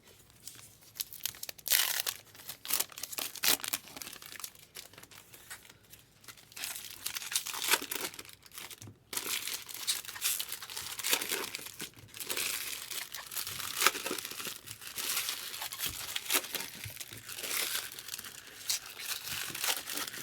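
Baseball card pack wrappers being torn open and crinkled by hand, an irregular run of crackles and rips with no steady rhythm.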